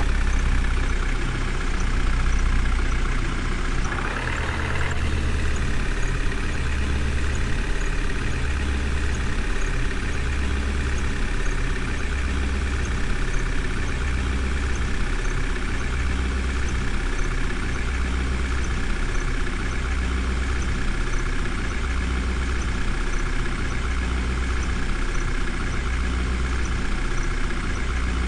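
Engine idling steadily with a regular low throb about every second and a half, with a short hiss about four seconds in.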